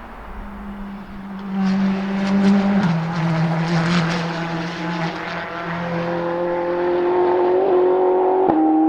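Ferrari 488 GTE race car's twin-turbo V8 coming closer on the circuit, getting louder, with a crackling stretch in the first half and the pitch dropping on a gear change. It then accelerates with a steadily rising pitch, and a sharp bang on an upshift near the end.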